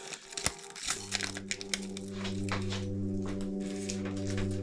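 Plastic wrapper crinkling in short rustles with small clicks, over soft background music holding a steady low chord from about a second in.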